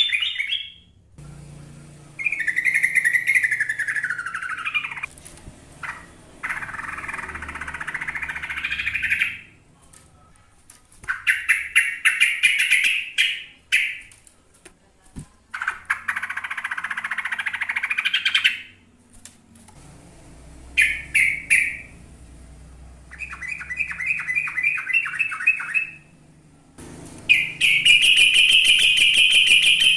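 Yellow-vented bulbul (trucukan) singing in rapid chattering phrases of one to three seconds, separated by short pauses. One phrase about two seconds in falls in pitch, and the longest, loudest run of quick notes comes near the end.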